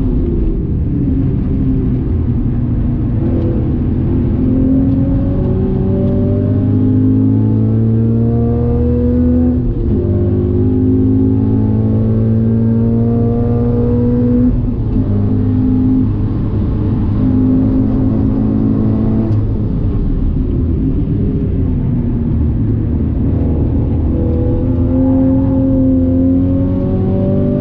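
Toyota GT86's 2.0-litre flat-four engine at full throttle on track, heard from inside the cabin. The engine note climbs steadily and drops sharply about ten, fifteen and nineteen seconds in, then falls for a few seconds before climbing again near the end.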